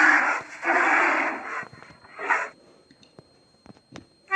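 Polar bear sound effect: loud, breathy huffs, two long ones and a shorter one, followed by a few faint clicks and a brief sharp sound at the very end.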